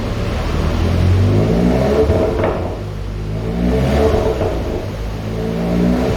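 Tuned Seat Leon Cupra 2.0 TSI turbocharged four-cylinder revving up from idle three times, each rev ending in a sharp exhaust crack as it falls back: the pops and crackles of a stage 2 tune.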